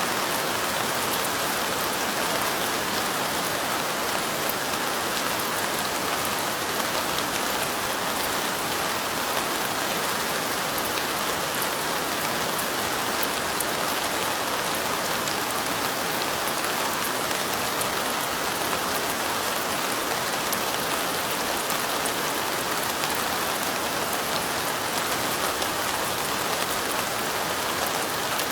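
Steady rain falling: an even hiss with fine ticks of individual drops, unchanging throughout.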